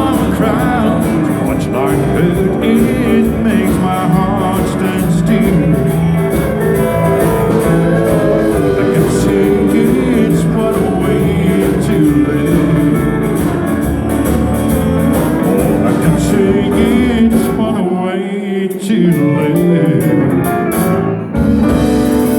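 Live country-rock band playing, with guitar to the fore and some singing. The bass drops out briefly about three-quarters of the way through, then the full band comes back in.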